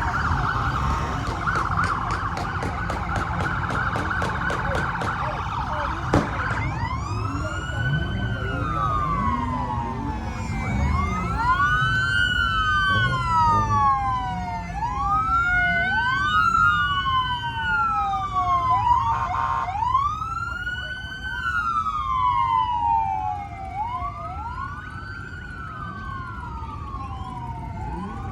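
Police car sirens: a fast yelp for about the first six seconds, then a slow wail rising and falling about every four seconds, with two sirens overlapping at times. Vehicle engine rumble underneath.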